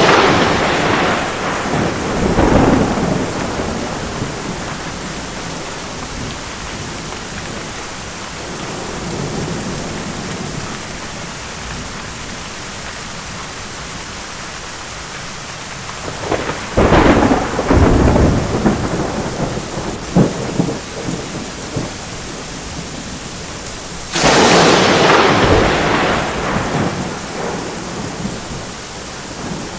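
Steady rain with rolling thunder. A peal is already rumbling away at the start, another rolls in about sixteen seconds in with a few sharp cracks, and a loud clap breaks about twenty-four seconds in and rumbles off.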